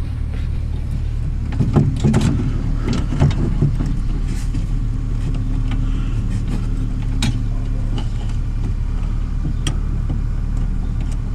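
A steady low mechanical hum runs throughout, with scattered light clicks and knocks of parts being handled.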